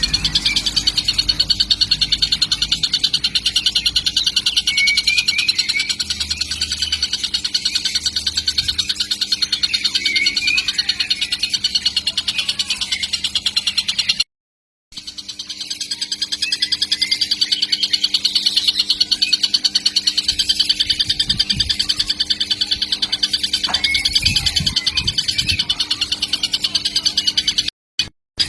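Young tengkek (kingfisher) calling nonstop in a rapid, buzzy pulsing trill, high-pitched, broken once by a short silent gap about halfway.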